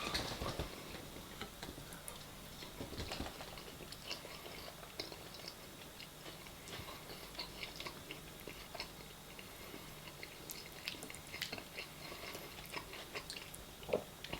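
A person chewing a mouthful of food, with soft, scattered mouth clicks and smacks.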